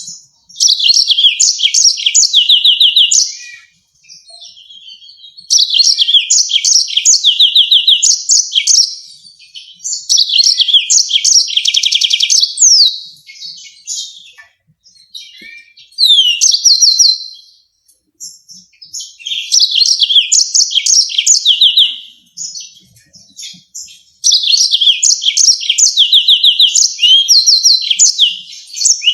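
Yellow-fronted canary singing: phrases of a few seconds made of rapid, sharp, repeated high notes and trills, separated by short pauses.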